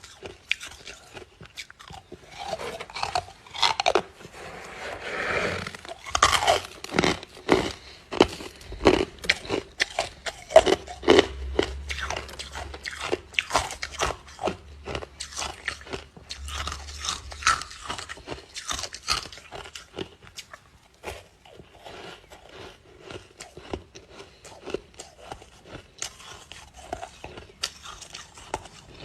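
Ice being bitten and chewed close to the microphone: a rapid run of sharp, crackling crunches, densest and loudest through the first two-thirds and sparser later on.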